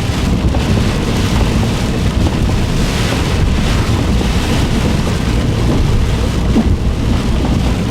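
Strong storm wind buffeting the microphone in a steady low roar while big hail falls.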